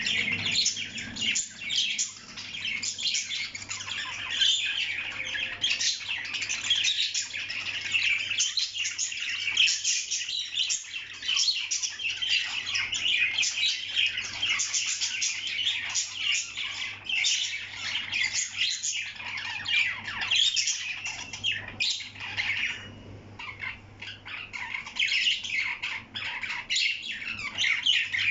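Parrot chattering in a rapid, unbroken stream of high chirps and squawks, easing off briefly about three-quarters of the way through.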